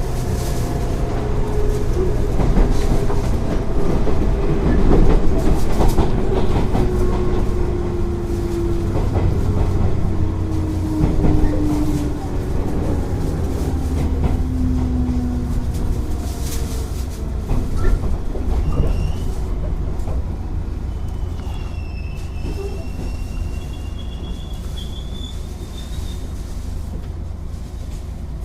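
Running sound inside a 205 series 0-番台 electric train with field-added excitation control: the traction motor tone falls steadily in pitch as the train slows, over a rumble with rail-joint clatter. In the second half, thin high wheel squeals sound as it draws toward a stop.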